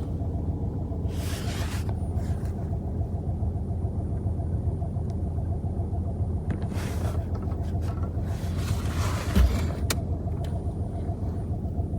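Ford Focus 1.0 EcoBoost three-cylinder engine idling steadily with a strange noise that the owner suspects is the water pump. There are a few short hissing swishes, and a dull thump about nine seconds in.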